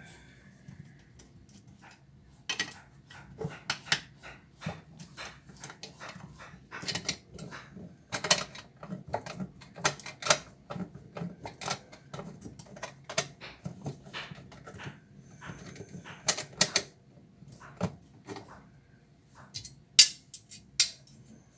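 Irregular clicks, taps and clinks of tools and metal parts being handled while a washing machine is taken apart, a few to several a second, with a louder clack near the end.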